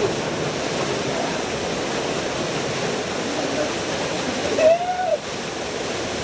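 Waterfall rushing steadily. About four and a half seconds in, a short call rises and falls in pitch over it, the loudest moment.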